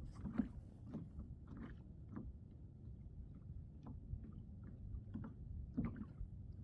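Quiet water sounds around a drifting kayak, with scattered small clicks and knocks against the hull.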